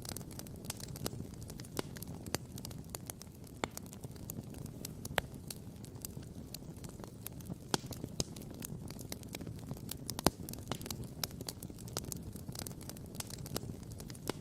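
Wood campfire crackling and popping, with many irregular sharp pops and one louder pop about ten seconds in, over a low steady rumble.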